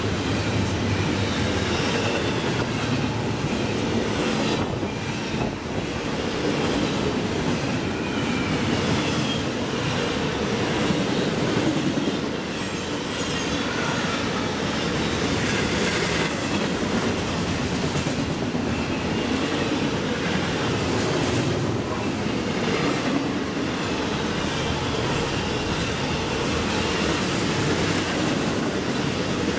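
Double-stack intermodal freight train rolling past close by: the well cars' wheels running over the rails in a steady, unbroken noise.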